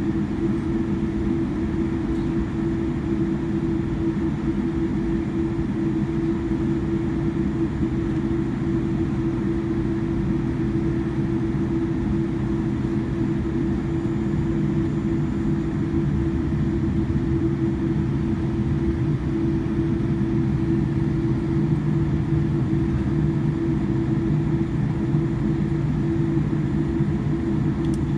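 Jet airliner taxiing: a steady low drone with a constant hum tone running through it, unchanging throughout.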